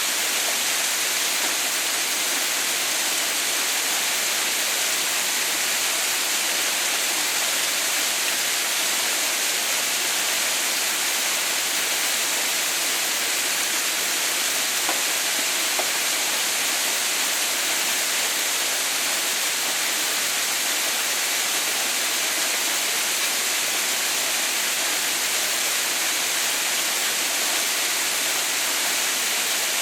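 Water falling steadily at the Haha no Shirataki (Mother's White Falls) icefall: a constant, bright, even rush that never changes.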